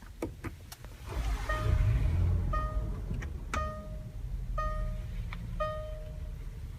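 A few clicks, then the 2015 Land Rover LR4's 3.0-litre supercharged V6 cranks and starts about a second in, flaring up and settling into a steady idle. Over it a dashboard warning chime sounds about once a second, five times.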